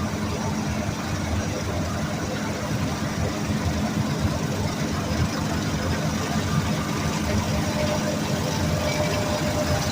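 A large engine running steadily at an even speed, with a constant low hum.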